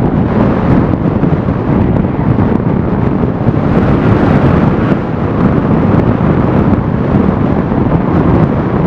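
Wind buffeting a camera microphone held outside a moving Jeep ZJ, mixed with the vehicle's road and engine noise as a loud, steady low rumble.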